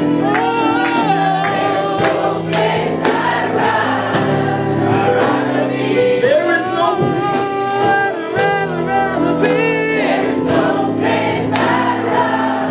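Gospel worship song: voices singing a melody over sustained chords and a band accompaniment.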